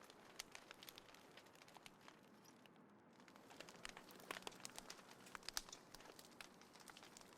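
Small wood fire crackling in a compact folding fire pit: scattered sharp pops and snaps over a faint hiss, coming thicker in the middle of the stretch.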